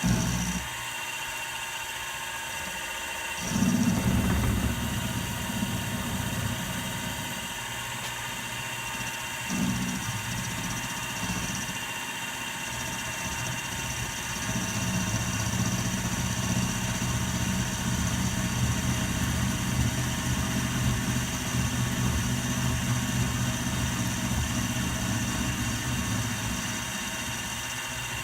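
Milling machine running with a steady whine, its cutter taking material off a knurling tool body as the table is fed by hand. A lower cutting noise comes in about three and a half seconds in, again near ten seconds, and then runs on steadily from about the middle.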